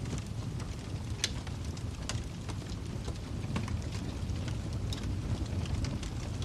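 Wood fire crackling in a fireplace: a steady low rumble of flames with scattered sharp snaps and pops, the loudest about a second in.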